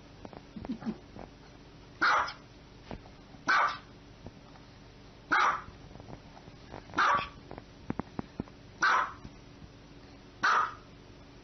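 Small white dog barking six times: single short barks, evenly spaced about one and a half to two seconds apart, with faint clicks between them.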